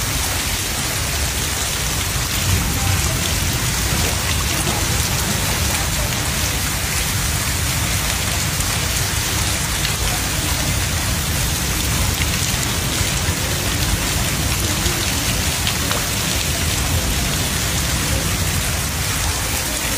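Heavy rain falling steadily, splashing onto a lane running with floodwater.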